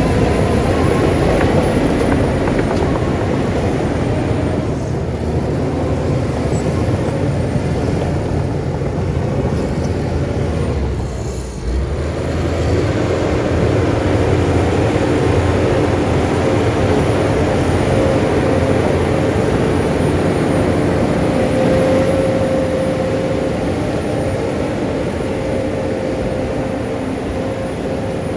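Heavy diesel earthmoving machinery running steadily. There is a brief lull about halfway through, and a steady whine sits over the engine noise in the second half.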